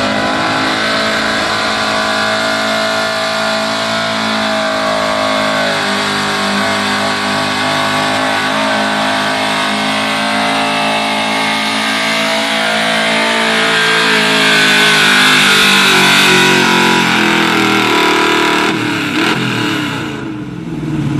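1981 Chevrolet pulling truck's engine held at high revs under full load during a pull down the track. It grows louder toward the end, then drops off sharply just before the end as the throttle lets off.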